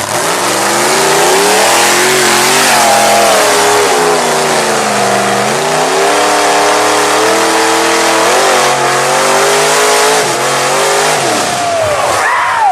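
Big mud-bog truck engine revving hard at full throttle, its pitch climbing, dipping about five seconds in, climbing again and falling away near the end, under a dense rush of noise.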